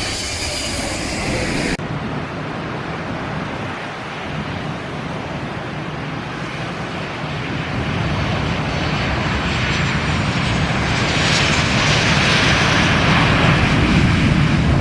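Jet airliner engines, the noise swelling steadily louder through the second half as the aircraft comes closer, with a strong hiss in the upper range from about eleven seconds in.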